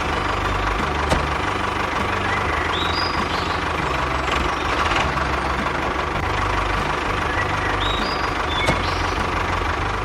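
An engine running steadily at a constant speed. A short high chirp sounds twice, about five seconds apart.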